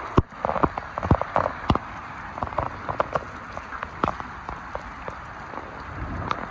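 Heavy rain falling: a steady hiss with many sharp taps of individual drops striking close by.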